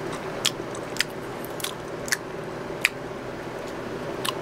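A person chewing a mouthful of rice and chicken, with about six sharp, short mouth clicks spread across a few seconds over a steady low hum.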